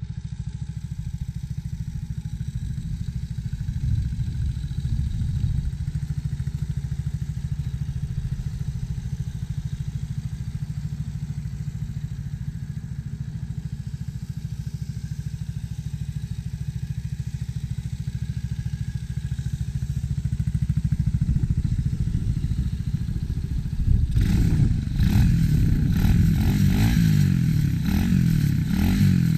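Tao DB14 dirt bike engine idling steadily, then revved up and down several times over the last five seconds or so, louder and with a rattling clatter.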